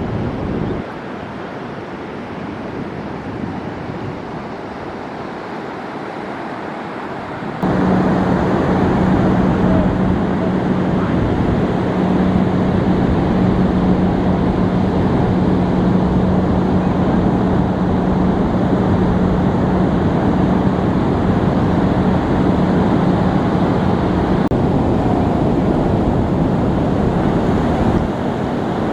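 Ocean surf washing onto the beach, with wind noise on the microphone. The sound shifts abruptly twice, getting much louder about eight seconds in, and a steady low hum runs through the middle stretch.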